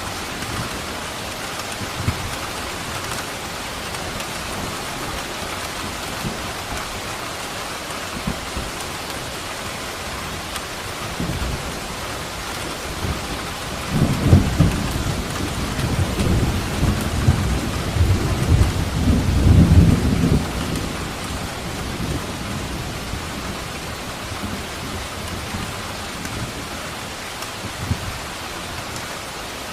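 Steady rain falling, with a rolling rumble of thunder from about halfway through that lasts some seven seconds, peaking twice before fading back into the rain.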